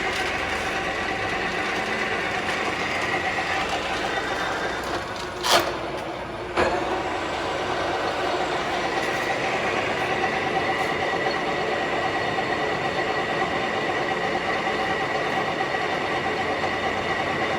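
Summit gap bed engine lathe running, its spindle and gearbox giving a steady mechanical whine. About five and a half seconds in, two sharp clunks come about a second apart, and the higher whine comes back after them.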